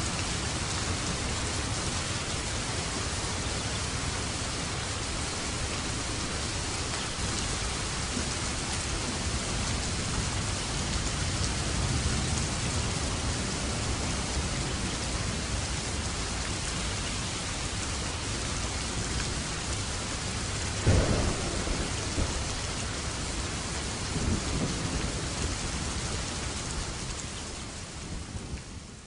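Steady rain with thunder: a sharp, loud thunderclap about twenty seconds in, a smaller one a few seconds later, and the whole fading out near the end.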